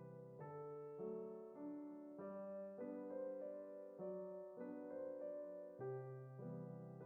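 Soft background piano music: slow, gentle chords that change about every half second.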